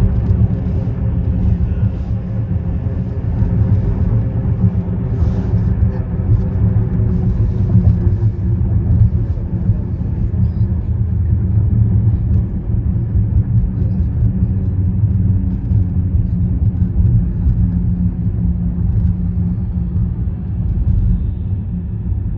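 Car tyres running over a concrete road or bridge deck: a steady, loud low rumble with no break.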